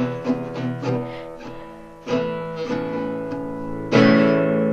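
Acoustic guitar strumming chords, with a new strum about two seconds in and a louder one near the end, each left to ring.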